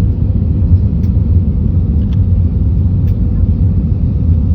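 Steady, loud low rumble of an airliner cabin during landing: engine and airflow noise heard from a passenger seat, with a faint steady hum above it and a few light ticks.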